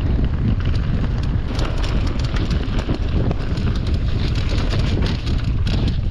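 Mountain bike riding down a dry, leaf-strewn dirt trail: tyres rolling over leaves and roots, with frequent small knocks and rattles from the bike. Heavy wind buffeting on the microphone rumbles underneath.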